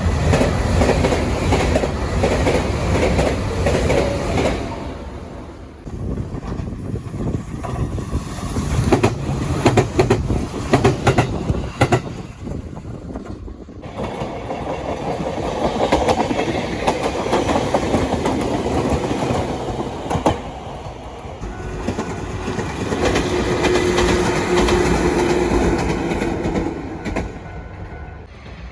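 Trains passing close by, their wheels clattering rhythmically over rail joints, with sharp clacks in quick pairs and groups over a heavy rumble. The sound drops out and starts again twice as one pass gives way to another, and a steady whine rises in the later pass.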